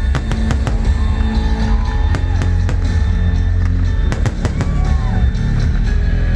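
Fireworks display: many sharp bangs and crackles of bursting shells, heard over loud music playing through loudspeakers.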